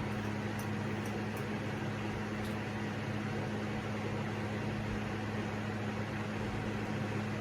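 Steady whir of a portable electric fan running, with a low, even hum underneath and a few faint ticks in the first few seconds.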